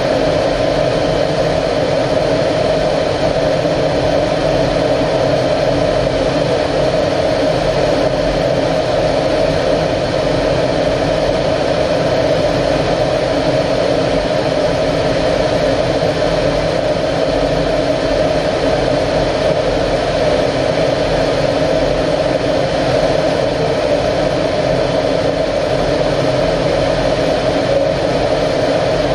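Steady, unbroken noise of an Aero L-39 Albatros jet's single turbofan engine running at constant power, with several steady tones riding over a loud, even rush.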